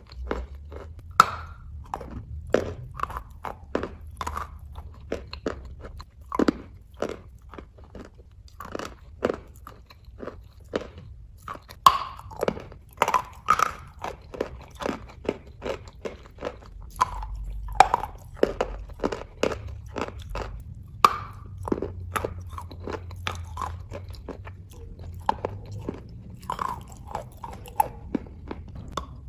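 Close-up crunching and chewing of a piece of chalk stone: sharp, irregular crunches, roughly one or two a second, as bits are bitten off and ground between the teeth.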